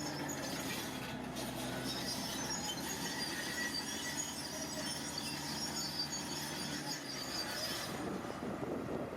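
Heavy earthmoving machine working, its diesel engine running under a high squealing and scraping that stops abruptly about eight seconds in.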